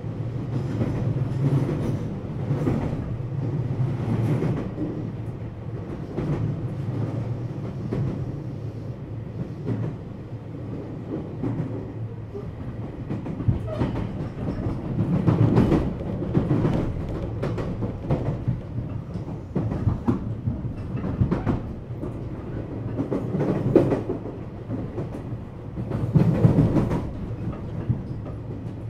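JR West 227-series electric multiple unit running at line speed, heard inside the motor car KuMoHa 227-68: a continuous rumble of wheels on rail, with scattered clacks and knocks from the wheels passing over rail joints.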